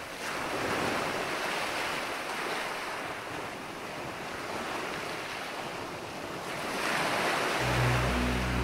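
Ocean waves washing and surging, swelling louder about seven seconds in. Near the end a steady low hum comes in underneath.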